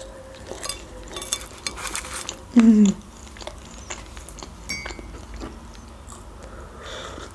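Close-miked eating of a shawarma: chewing and wet mouth clicks, with a short hummed "mm" falling in pitch about two and a half seconds in. Near the end comes a sip from a mug.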